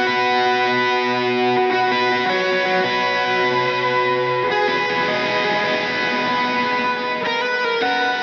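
Electric guitar played through a Donner Dumbal Drive light-gain overdrive pedal: ringing, sustained chords that change every second or two.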